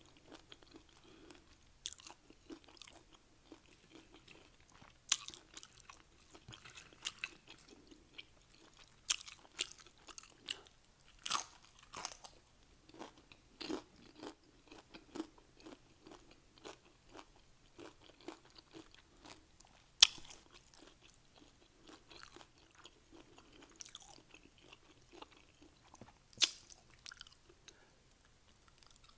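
Close-up crunching and chewing of Doritos nachos: sharp, irregular crunches of the tortilla chips with softer chewing between them, one especially loud crunch about two-thirds of the way through.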